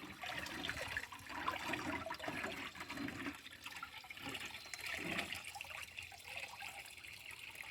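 Water pouring and splashing unevenly out of a steel truck door, draining as the door is lifted out of an electrolysis tank.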